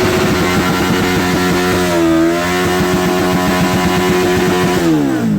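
A car engine held at high, steady revs. The pitch wavers briefly about two seconds in, and near the end the revs fall away as the throttle is released.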